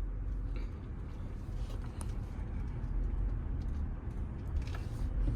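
Vehicle driving along, a steady low rumble with a few faint clicks.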